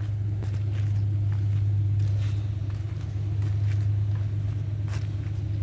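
Heavy diesel engine running steadily with an even low hum, a few faint knocks over it.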